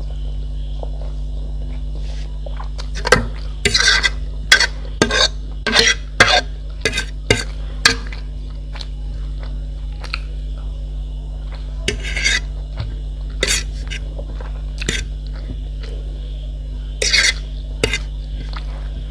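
Cutlery clinking and scraping against a plate or bowl while eating: a quick run of strokes for several seconds, then scattered single ones, over a steady low hum.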